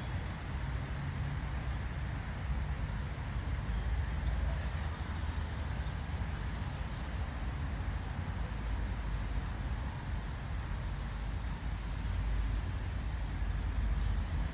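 Steady outdoor background noise: a constant low rumble under an even hiss, with no clear single event.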